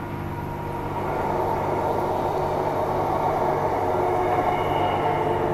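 Transperth A-series electric multiple unit running, heard from inside the carriage: a steady rumble of wheels on rail with a motor hum, growing louder over the first second or so and then holding even.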